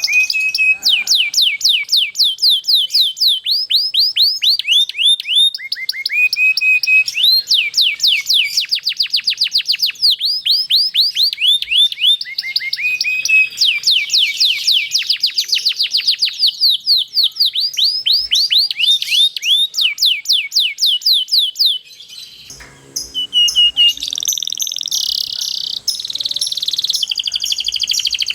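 Domestic canary singing long rolling trills: fast runs of rapidly repeated high falling notes, with a short break about three-quarters of the way through before the trilling resumes.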